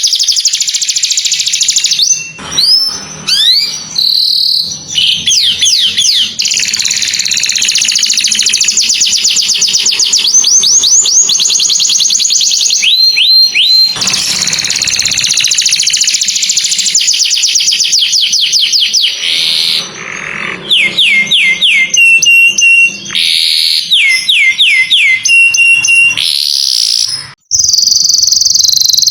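Canary singing a long, loud song of rapid high trills and rolls, broken by quick sweeping notes and a few short held whistles.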